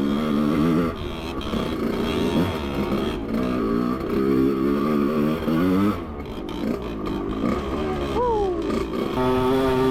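Dirt bike engine running under throttle, revving up and easing off again and again, so its pitch keeps rising and falling.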